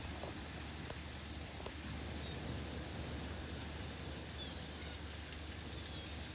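Steady outdoor background noise with a few faint clicks, about a second and a half in.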